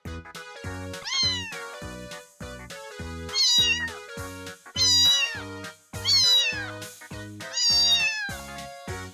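Domestic cat meowing five times, each meow rising then falling in pitch, over background music with a steady beat.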